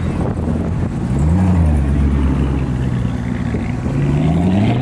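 Car engine pulling away under throttle. The engine note rises about a second in, holds steady, then climbs again near the end.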